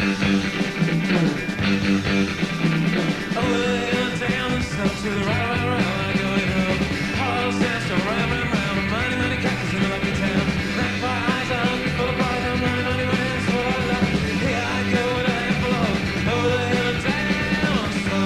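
Psychedelic rock recording playing: a full band with a melodic line gliding over a steady low drone.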